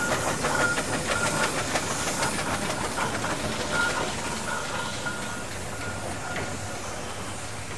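Steam traction engine running, with quick exhaust beats over a steady hiss of steam and short high-pitched tones on and off. The sound grows fainter toward the end.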